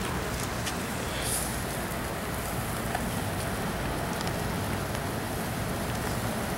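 Rain falling steadily: an even hiss with a few faint taps.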